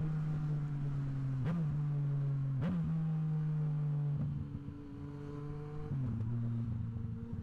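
Yamaha MT-09 SP motorcycle engine running under way through a Blackwidow aftermarket exhaust, holding a steady note with two brief sharp breaks about a second and a half and nearly three seconds in. The sound eases off about four seconds in and settles at a slightly lower note near the end.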